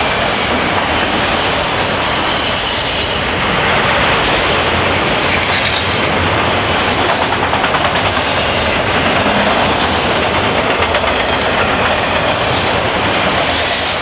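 Freight train of autorack cars rolling past: a steady rumble of steel wheels on rail with a rhythmic clickety-clack of the wheels over the rail joints.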